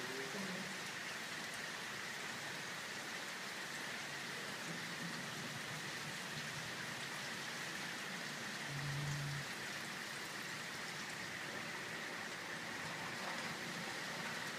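Steady rain falling, an even hiss of raindrops with no pause. A short low hum sounds once, a little past halfway.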